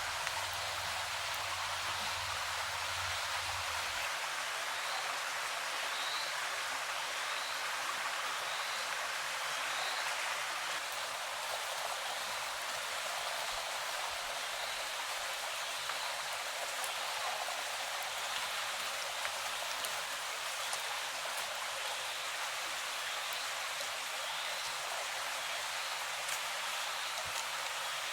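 Steady rush of flowing stream water, with faint short high chirps repeating in runs now and then. A low rumble underneath stops about four seconds in.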